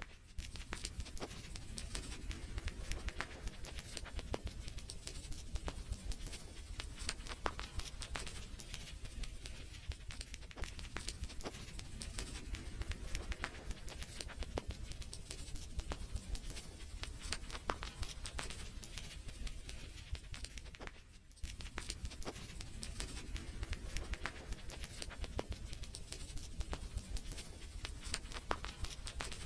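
Wood fire crackling, with dense irregular pops and snaps over a low rumble, dropping off briefly about two-thirds of the way through.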